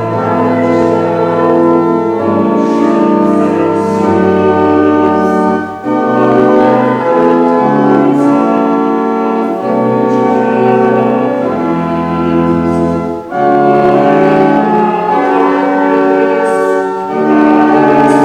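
Church organ playing a slow, hymn-like piece in held chords over a low pedal bass, with brief pauses between phrases.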